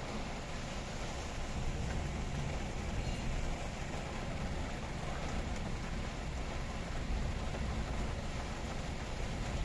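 Heavy rain falling: a steady hiss with a low rumble underneath.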